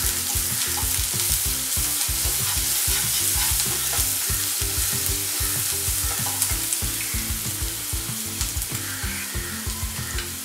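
Chopped onion, cumin seeds and ginger-garlic paste sizzling in hot oil in a nonstick wok, with a steady hiss, while a wooden spatula stirs and scrapes them around the pan.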